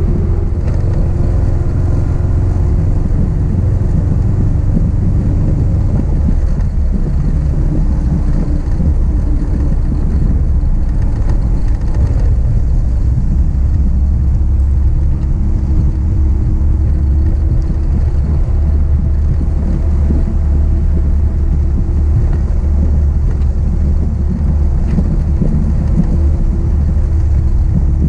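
1966 Triumph Spitfire's four-cylinder engine running steadily under way, heard from inside the open-top cockpit as a strong low drone, its note shifting a little now and then.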